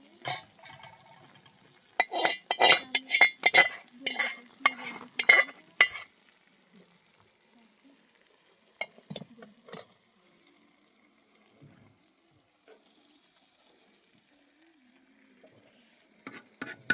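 Quick runs of sharp metallic clinks and scraping: a dense run for about four seconds, a few scattered clicks later, and another fast run of ringing clinks near the end.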